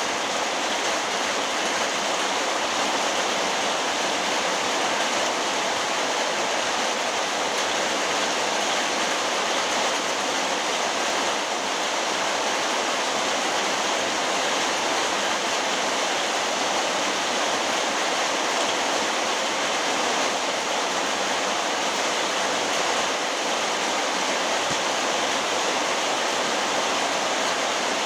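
Very heavy rain falling in a steady, even downpour, a dense unbroken rush.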